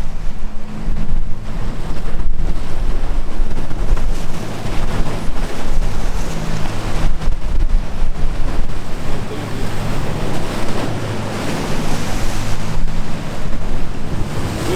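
Sea waves washing and breaking, with wind blowing on the microphone and a low steady hum underneath.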